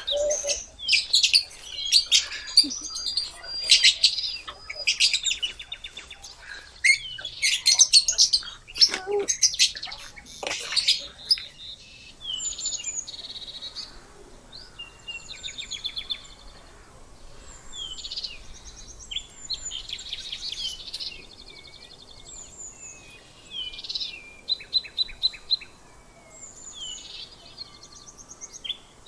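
Small birds chirping and calling, many short chirps and trills overlapping; busy and loud for roughly the first ten seconds, then sparser and quieter.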